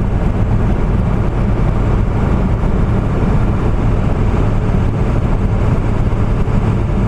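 Ford F-250 diesel pickup cruising at a steady speed, heard from inside the cab: an even, low engine drone mixed with road noise, unchanging throughout.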